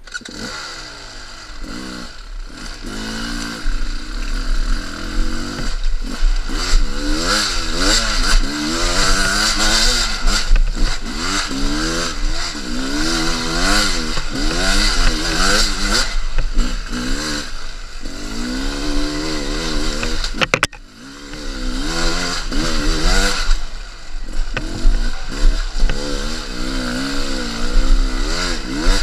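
Two-stroke enduro motorcycle engine being ridden hard, its pitch rising and falling again and again with the throttle. The sound dips briefly about two-thirds of the way through.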